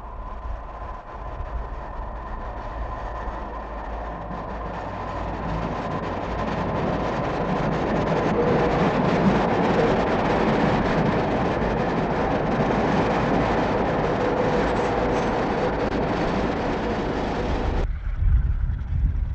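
Passenger train running along the rails, growing louder as it nears and then steady as it passes beneath, with a faint constant whine over the rail noise; the sound cuts off suddenly near the end.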